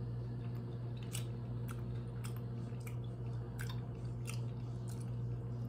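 Close-up mouth sounds of a person chewing a bite of soft, moist cassava cake: irregular small wet clicks and smacks. A steady low hum runs underneath.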